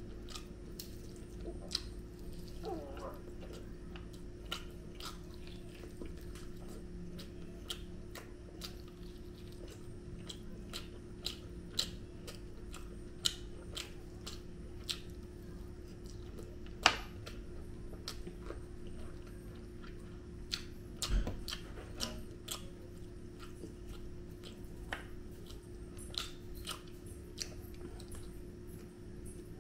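Eating sounds: a man chewing chicken biryani and tandoori chicken eaten by hand, with many short scattered clicks and smacks. The sharpest comes about seventeen seconds in. A steady low hum runs underneath.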